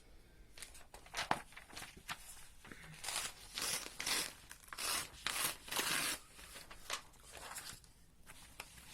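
Sheets of coloured paper rustling as they are handled: a few light knocks, then several short rustling bursts in the middle.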